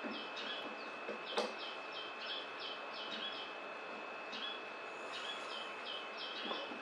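Small birds chirping over and over, several quick chirps a second with short gaps, over a steady high-pitched tone and background hiss. A single sharp click about a second and a half in.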